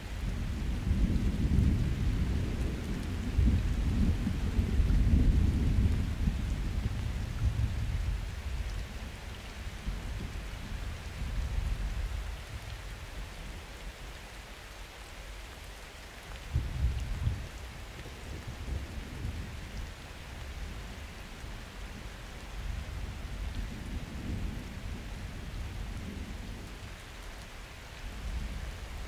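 Summer thunderstorm: steady rain with rolling thunder. A long low rumble runs through the first dozen seconds and fades, a shorter sudden peal comes a little past halfway, and a softer rumble rolls in near the end.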